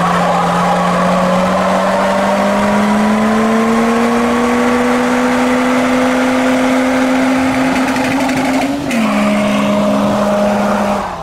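A car engine revved hard and held at high revs, its pitch slowly climbing for about nine seconds, dipping briefly, then held again before cutting off.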